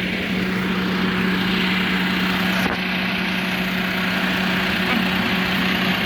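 Midland Bluebird bus 3361 running with a steady, hoover-like whooshing hum: a constant low drone under an even hiss.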